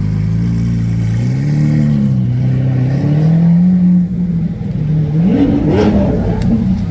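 Lamborghini Aventador's V12 engine revving in blips, its pitch rising and falling several times, with the strongest rev about five seconds in.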